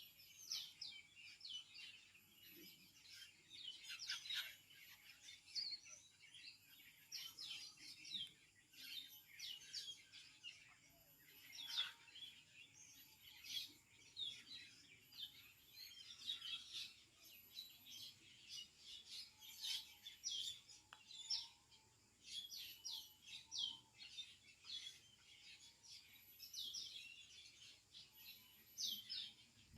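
A feeding flock of many birds chirping and calling together in a fruiting banyan fig tree: a busy, continuous chorus of short, high chirps overlapping one another.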